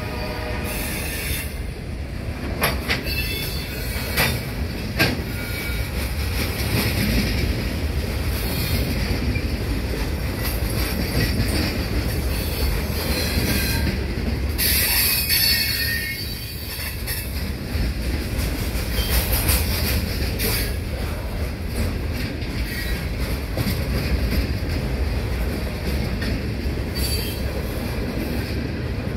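Loaded hopper cars of a freight stone train rolling past close by: a steady rumble of steel wheels on rail with sharp clicks over the joints, and high-pitched wheel squeal now and then.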